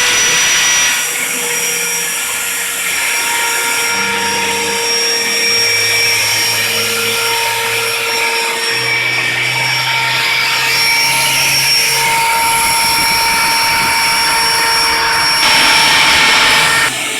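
Router spindle on a CNC table running steadily as it cuts acrylic, a high whine over rushing cutting noise, with a lower hum that shifts in pitch every second or two. It gets louder for a moment near the end, then drops back.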